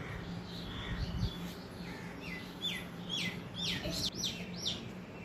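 A small bird chirping: a quick series of short calls, each falling in pitch, about three a second, starting about two seconds in and getting louder.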